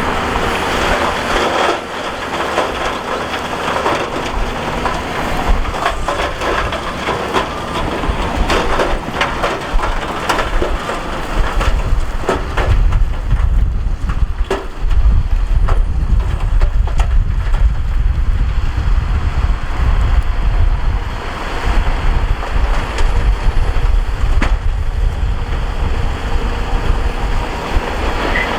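Heavy earthmoving machine working loose rock: stones grinding and clattering over the deep rumble of a diesel engine, the rumble growing louder about halfway through.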